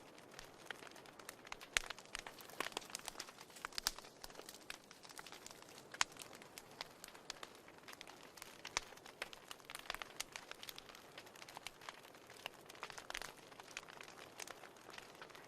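Fire in a fireplace crackling: many irregular sharp pops and snaps over a soft hiss, a few of them louder.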